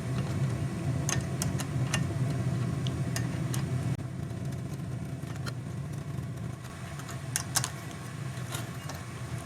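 Scattered light metallic clicks and taps as a 9mm box wrench works the front derailleur clamp bolt on a steel bike frame, over a steady low hum.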